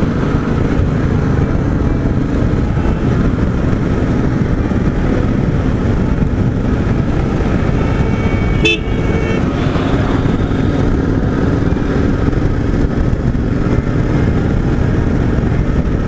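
Motorcycle engine running steadily at road speed, with continuous road and wind noise. A vehicle horn honks once, briefly, about nine seconds in.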